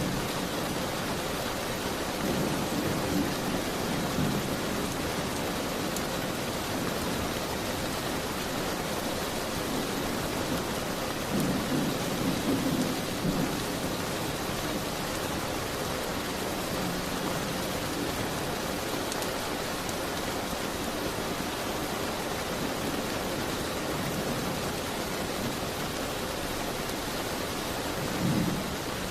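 Steady rain, with low rumbles swelling up about two seconds in, around twelve seconds and again near the end, like distant thunder.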